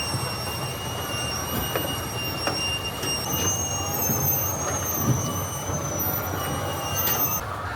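Machinery running with a steady low rumble and several high, steady squealing tones, plus a few faint clicks. The squeal changes pitch partway through and the loudest of it stops just before the end.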